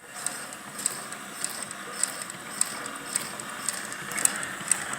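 Leather patch sewing machine stitching, a steady motor run with a sharp click about twice a second as each stitch is made.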